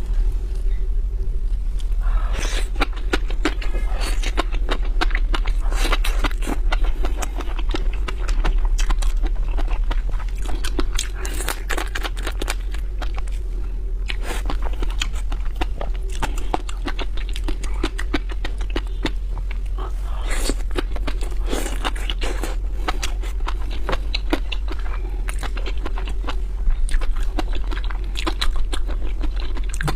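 Close-miked crackling, scraping and crunching of seafood being handled and eaten, many small clicks throughout, over a steady low hum.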